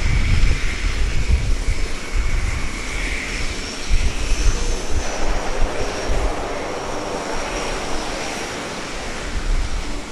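UH-60 Black Hawk helicopters approaching: rotor noise with uneven low beats and a steady high turbine whine.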